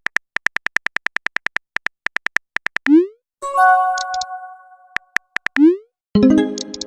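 Text-messaging app sound effects: a run of rapid keyboard typing clicks, a short rising whoosh as a message is sent, then a ringing electronic chime. The clicks and whoosh come again, and a fuller chime-like chord starts about six seconds in.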